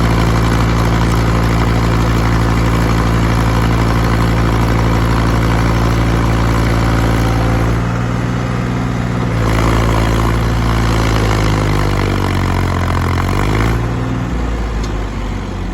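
Heavy diesel engine running steadily, dropping back about eight seconds in, then revving up with a steadily rising pitch and falling off again near the end.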